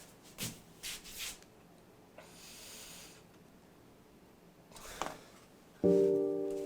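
A few brief, soft noises in a quiet room, then near the end a piano chord is struck and rings on, slowly fading.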